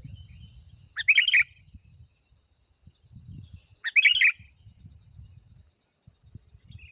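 Sooty-headed bulbul (kutilang) giving two short, loud bubbling song phrases about three seconds apart, with faint chirps between. It is a lively call used to lure rival birds.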